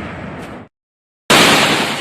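Shipboard gunfire during a battle-stations drill: the echo of a burst of shots fades with one more short crack, the sound drops to dead silence for about half a second, then a loud blast cuts in and rings on.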